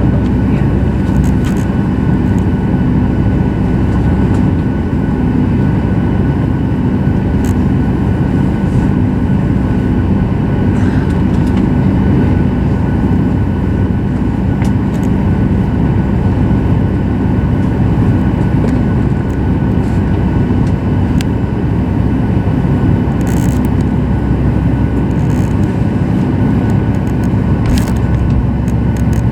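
Steady airliner cabin noise inside a Boeing 737 MAX 8: a constant low rumble from the running engines and air systems, with a faint steady tone over it and a few light ticks.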